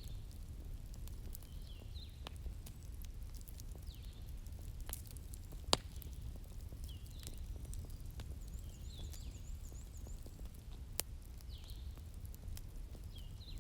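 Wood bonfire crackling: a low steady rumble of flames with scattered sharp crackles and two louder pops, about six and eleven seconds in. Short high chirps recur every second or two over the fire.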